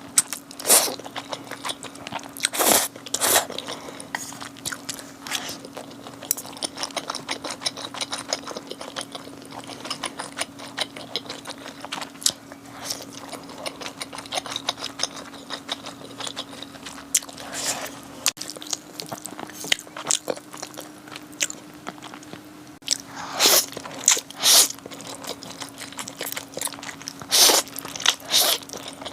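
Close-miked eating: steady chewing with repeated crunchy bites, a few of them much louder than the rest, over a faint steady hum.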